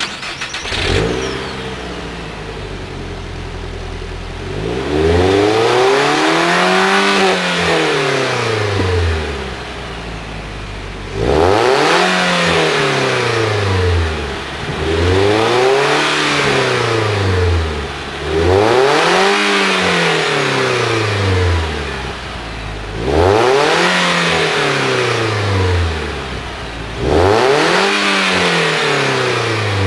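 Nissan Sentra SE-R/Spec-V 2.5-litre four-cylinder through a Tanabe Medalion Touring axle-back exhaust. It idles for a few seconds, then is revved six times, each rev climbing and falling back over about three seconds, with a deep exhaust tone.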